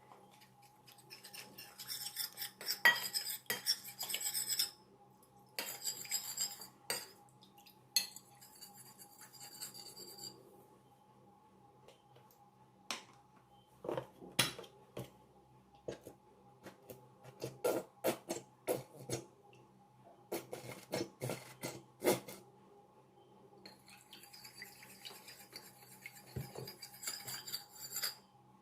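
Kitchen utensils and dishes clinking and scraping during cooking prep. There are stretches of scraping and rattling in the first several seconds and again near the end, with a run of separate sharp knocks and clinks in between.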